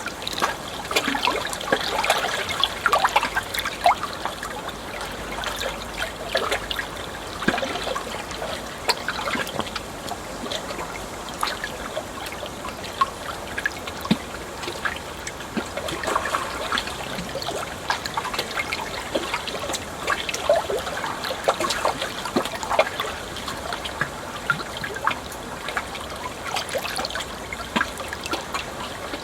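Water trickling and splashing steadily, with many small splashes and drips standing out.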